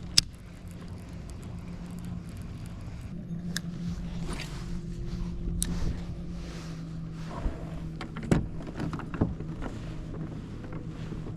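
A small boat motor running with a steady low hum, which here drives a fishing kayak. Sharp clicks and knocks sound over it: one just after the start and several louder ones about eight seconds in.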